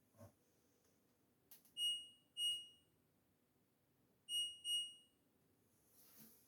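LG Direct Drive washing machine's control panel beeping as buttons are pressed to set the cycle: four short, high beeps that ring and fade, in two pairs about half a second apart. A faint click falls between the pairs.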